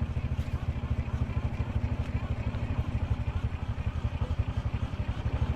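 Small boat's engine running steadily, a low drone with a fast, even pulsing.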